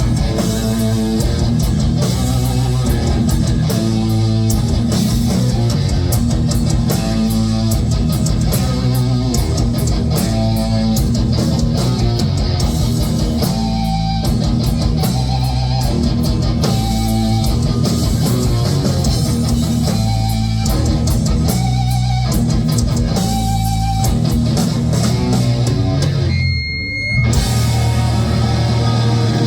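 Heavy metal band playing live: distorted electric guitars, bass and drums in a dense, steady riff, with a short break about 26 seconds in before the full band comes back.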